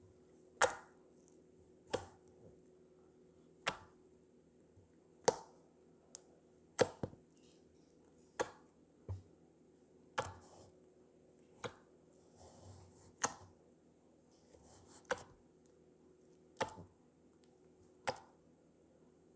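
Slime being worked by hand, giving about a dozen sharp pops or clicks, roughly one every second and a half.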